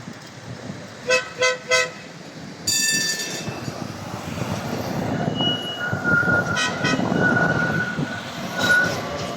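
Tram warning horn giving three short toots, then a longer, brighter toot, and later another quick series of toots. These are heard over the rumble of a tram running past on the rails, which grows louder through the second half and carries a thin high steady tone.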